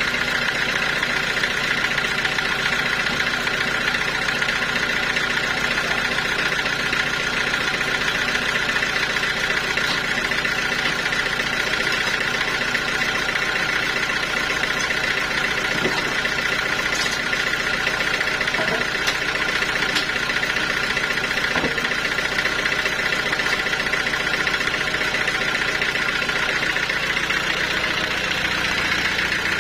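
Sawmill machinery running steadily: a constant mechanical drone with a steady high whine and a few faint knocks in the middle.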